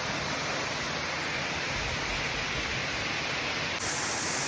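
Steady rushing of a waterfall, an even unbroken roar of falling water. Near the end the sound changes suddenly and gets brighter and hissier.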